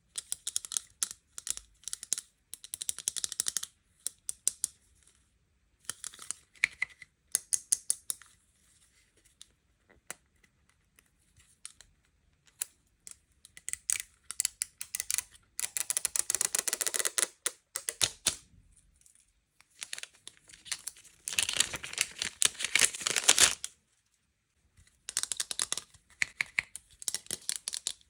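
Unboxing of sweets and toy packaging: runs of sharp clicks and taps, with two longer bursts of crinkling and tearing plastic or paper wrapping in the second half.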